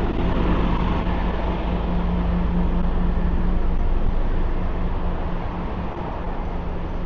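Busy street traffic: a constant rumble of motor vehicles, with one vehicle's engine giving a steady low hum that eases slightly about five seconds in.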